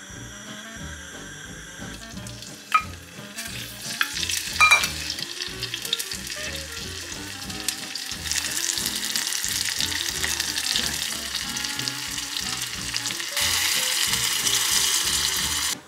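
Pork sizzling in sesame oil in a hot earthenware pot (ttukbaegi) on a gas burner, with a few sharp clinks of a spoon against the pot early in the frying. About two seconds before the end, water poured from a jug into the hot pot makes a louder rushing hiss.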